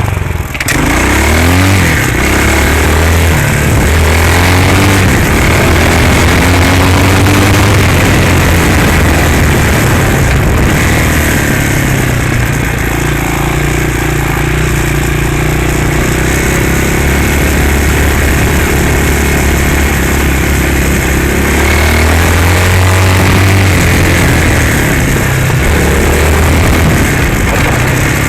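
Hawk 250cc dirt bike's single-cylinder engine running, its pitch rising and falling with the throttle near the start and again in the last few seconds, and holding steadier in between.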